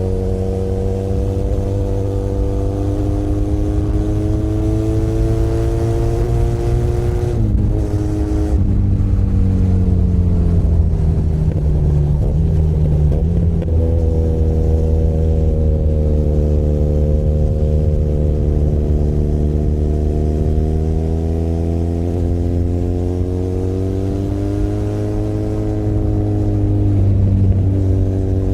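Benelli Leoncino 500 Trail's 500 cc parallel-twin engine running under way. Its note breaks off briefly and drops about eight seconds in, then climbs again after about fourteen seconds and rises and falls with the throttle.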